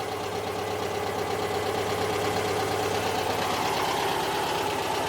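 An engine idling steadily, an even hum.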